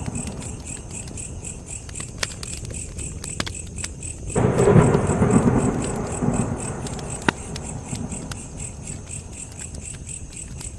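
Campfire crackling with scattered sharp pops, over a steady, even chirping of insects several times a second. About four seconds in, a low rumbling surge comes in suddenly and fades over a couple of seconds.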